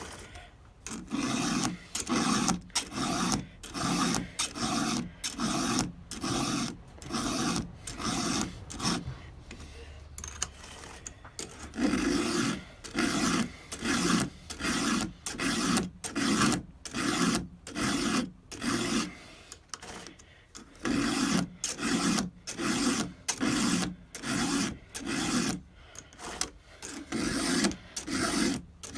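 Hand file rasping back and forth across the cutting teeth of a Stihl 200T saw chain, in even strokes a little under a second apart. There are brief pauses about ten and twenty seconds in, as the file moves on to the next tooth.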